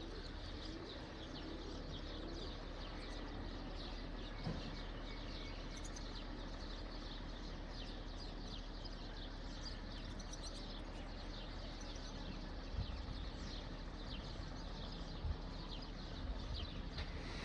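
Small birds chirping and twittering over and over, high-pitched, over a steady low background rumble, with a few brief low thumps.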